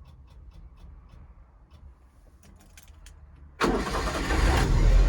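A Honda Acty kei truck's engine being started: a few faint clicks, then about three and a half seconds in the starter cranks for about a second and the engine fires and runs.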